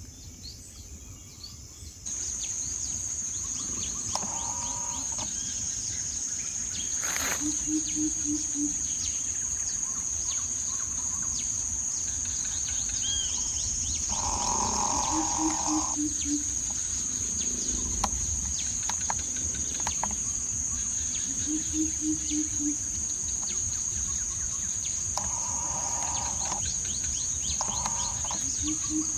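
Outdoor ambience: a steady high insect drone that comes in about two seconds in, and a coucal hooting a quick series of about five low notes, repeated four times at intervals of six to seven seconds. Scattered short bird chirps sound throughout.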